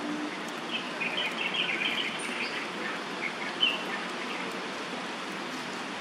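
Short, high bird chirps in a quick cluster between about one and four seconds in, over a steady background hiss.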